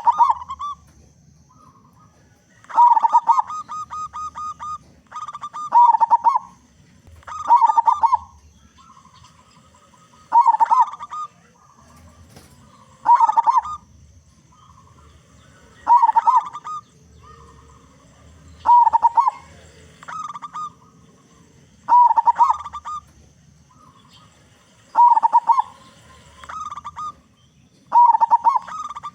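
Zebra dove (local perkutut) cooing its rolling, stuttering song near 1 kHz, one phrase about every two to three seconds, about a dozen times.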